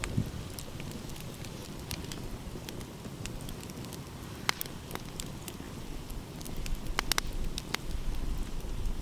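Wood fire crackling, with scattered sharp pops and snaps, the loudest a little past the middle and near two thirds in. Beneath it runs a low steady rumble that grows louder toward the end.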